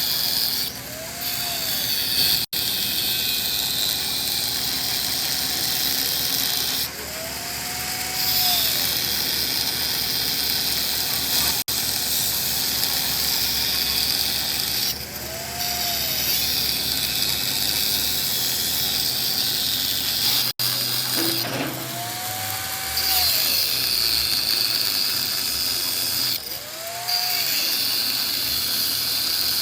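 A workshop machine running steadily with a loud hiss. A faint tone rises and falls about every seven seconds, and the sound drops out for an instant three times.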